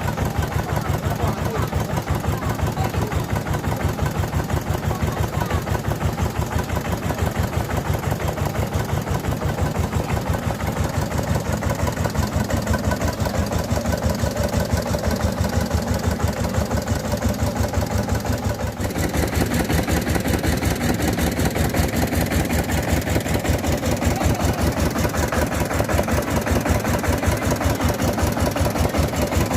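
Diesel engine of a mobile rice mill running steadily with a fast, even beat. A little over halfway through the sound shifts, with more hiss and rattle on top of the engine.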